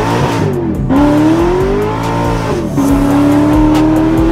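V8 performance car accelerating hard: the engine note climbs, drops sharply at an upshift about a second in and again near three seconds in, then holds a steady pitch.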